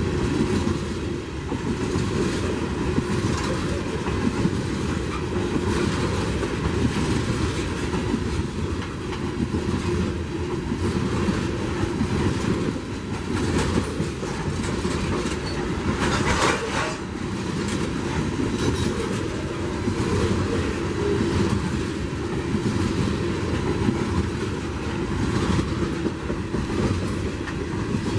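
Freight train cars rolling past at steady speed, their wheels clicking over the rail joints. About two-thirds of the way through there is a brief, sharper clatter.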